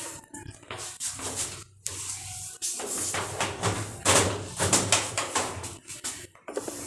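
Irregular clicks, knocks and rustling of parts being handled during a washing-machine repair, over a faint low hum.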